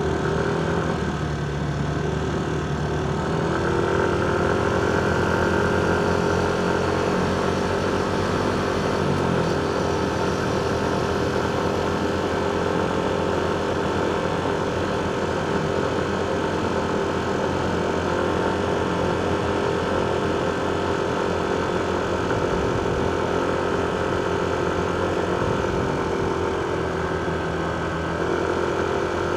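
Motorcycle engine running at a steady, even pitch amid road traffic, with one brief drop in pitch about a third of the way in.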